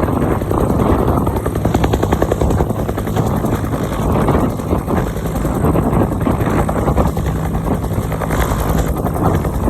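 Bell UH-1 Huey helicopter running, with the rapid, even beat of its two-bladed main rotor over a steady engine hum.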